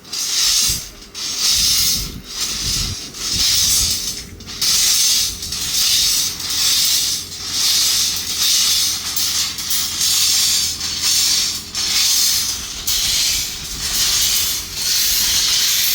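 A loud hissing that swells and fades in a steady rhythm, about once a second.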